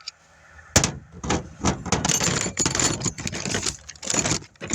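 Tire-repair tools and parts being handled: irregular clinking and rattling, with a sharp knock about a second in.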